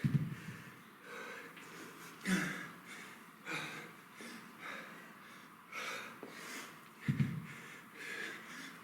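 A man breathing hard under exertion, with sharp, forceful exhalations about once a second in a steady rhythm that matches the repetitions of a kettlebell exercise.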